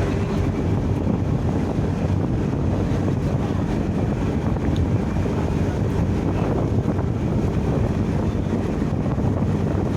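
Steady low hum of a ship's engine heard on board, with wind on the microphone.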